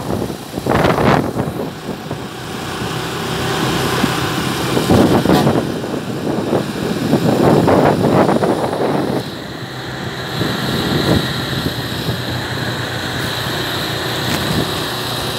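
Motorcycle engine running at road speed, with swells of rushing noise coming and going over it.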